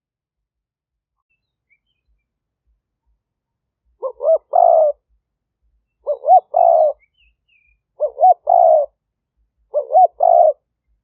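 Spotted dove cooing: the decoy bird's song, used to lure wild doves. It gives four phrases about two seconds apart, beginning about four seconds in, and each is two short rising coos followed by a longer coo.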